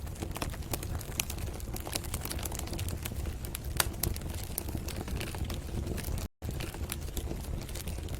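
Wood fire crackling and popping in a fireplace, irregular sharp snaps over a steady low rumble of the flames. The sound cuts out completely for a split second about six seconds in.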